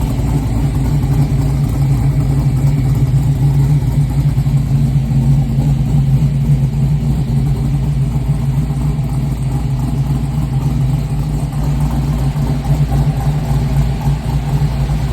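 6.0-litre LS V8 in a G-body Oldsmobile Cutlass idling steadily.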